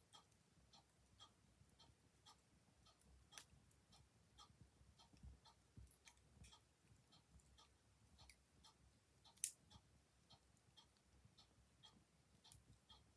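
Faint, steady ticking of a clock, with occasional crackles and pops from a wood fire; the sharpest pop comes about nine and a half seconds in.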